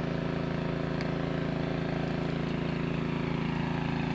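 Walking tractor's small diesel engine running steadily at constant speed, driving a pump to drain a pond.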